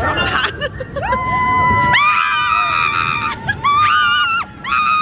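Several people screaming in long, high, held screams that overlap and follow one after another, with a short break about four and a half seconds in.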